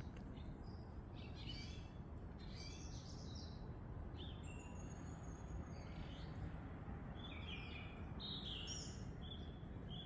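Wild songbirds calling and singing in a string of short chirps and whistled phrases, over a steady low hum of background noise.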